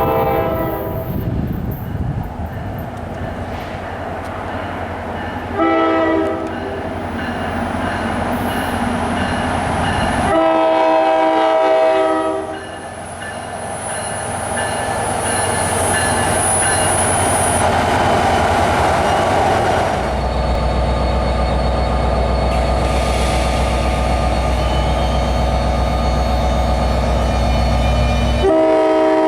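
Locomotive air horn blowing several chord blasts: one ending just as the sound begins, a short one about six seconds in, a long one around eleven seconds, and another at the very end. Between the blasts the train runs steadily, with a deep engine rumble coming in about two-thirds of the way through.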